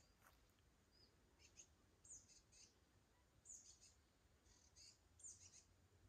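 Small songbirds chirping faintly in the forest: short, high-pitched chirps in little clusters every second or so, over a quiet low hiss of background noise.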